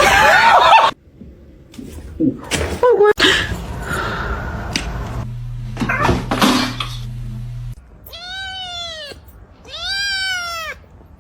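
A domestic cat meowing: two long, drawn-out meows near the end, each rising and then falling in pitch, after a stretch of mixed knocks and noises.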